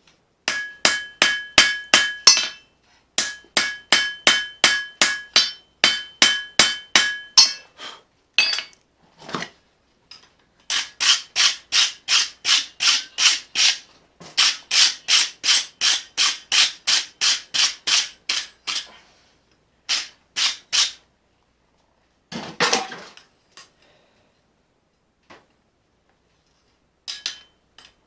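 Hand hammer blows on hot steel over an anvil while forging a blade from leaf-spring steel: runs of quick strikes, about four or five a second, in bursts of a few seconds with short pauses between. The first runs ring with a clear anvil tone. Near the end there is a single duller clatter.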